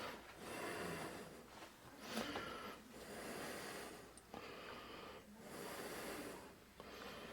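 Faint breathing close to the microphone, a run of soft in-and-out breaths each lasting about a second.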